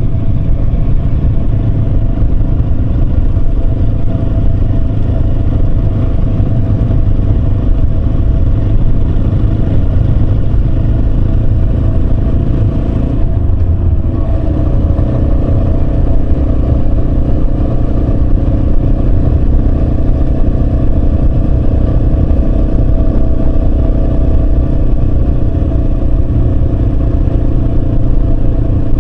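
Yamaha Serow 250's single-cylinder four-stroke engine running steadily under way, with a heavy constant low rumble. About halfway through the engine note dips briefly and then picks up again.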